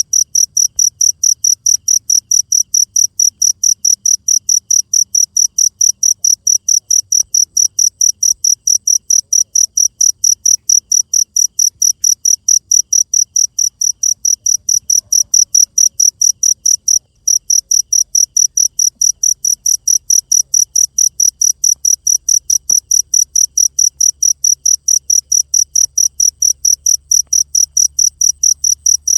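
Cricket chirping steadily and loudly, a high, even pulse of about three chirps a second, with a short break about 17 seconds in.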